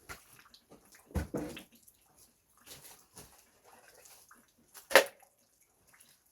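Old wooden boards and timber being handled and moved: a dull knock about a second in, light clatter, and a loud sharp crack of wood near the end.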